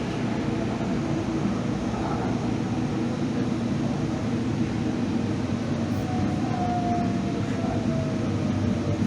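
Steady running noise of a moving train, with a faint falling whine from about six seconds in.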